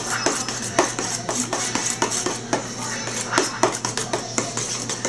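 A spoon stirring a thick mayonnaise, ketchup and relish sauce in a bowl, clinking against the bowl again and again, a few times a second.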